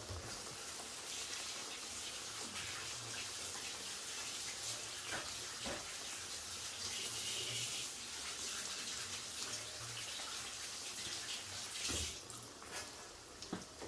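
Kitchen tap running as hands are rinsed under it. The water stops near the end, followed by a few clicks.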